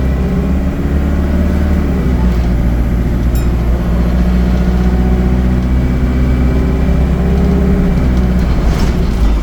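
ADL Enviro 200 bus's diesel engine running under load, its note climbing, dipping about two seconds in, then climbing again.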